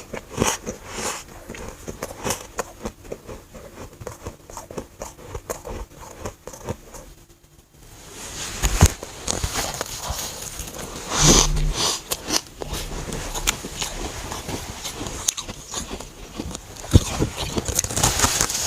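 Close-miked biting and chewing of chunks of dry, powdery freezer frost: dense crackling crunches, broken by a brief pause partway through, with a few louder bites later on.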